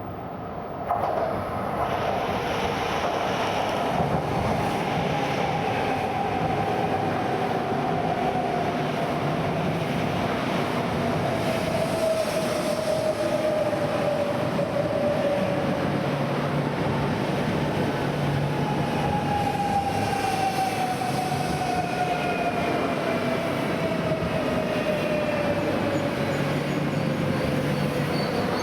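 E1 series Max double-deck Shinkansen train pulling into the station. The loud rail noise comes in about a second in, and a whine falls in pitch twice as the train slows.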